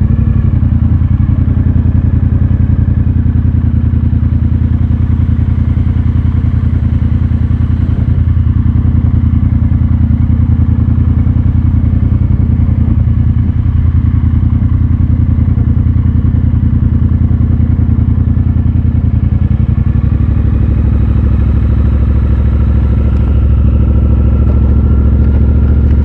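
Triumph Bobber's 1200 cc parallel-twin engine running steadily under way, with a deep, even exhaust note; the engine note shifts slightly about twenty seconds in.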